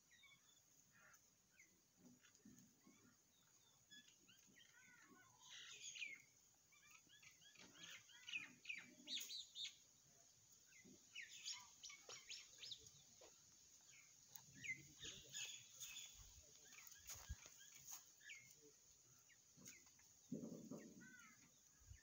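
Faint chirping of small birds: many short, high chirps and quick falling twitters, busiest in the middle, with a low muffled sound near the end.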